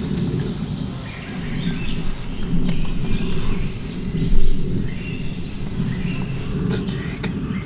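Wild birds giving short chirps and calls over a steady low rumble, with a louder thump about four seconds in.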